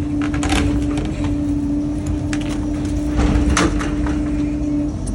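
Excavator running with a low rumble and a steady hum, broken by several sharp knocks and cracks of demolition work. The hum cuts out just before the end.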